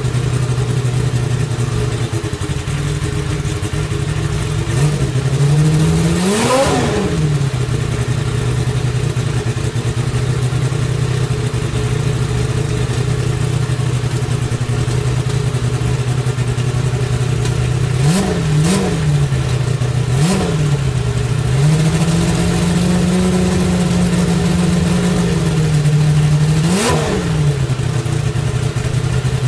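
1988 Nissan GTP-ZX race car's 3.0-litre turbocharged V6 idling during its warm-up, with the throttle blipped: one longer rev up and back down, then three quick blips, a few seconds held at a higher idle, and one more sharp blip near the end.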